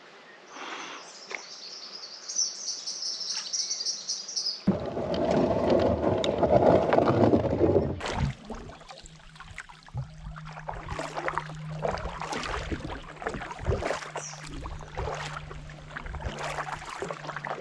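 High, rapid chirping of birds or insects for the first few seconds, then a rush of water splashing, then a run of irregular water splashes and drips.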